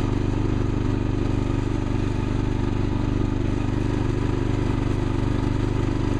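Gravely tractor engine running steadily at a constant speed, with an even, rapid firing pulse.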